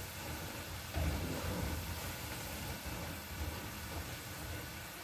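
French fries frying in a pot of oil on a gas stove: a steady sizzling hiss with a low hum underneath, a little louder from about a second in.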